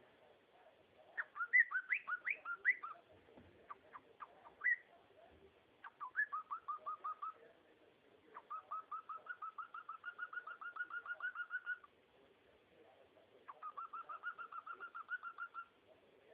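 Cockatiel chirping and whistling: a scatter of short rising chirps, then three runs of quick repeated whistled notes, about seven a second, the longest lasting over three seconds.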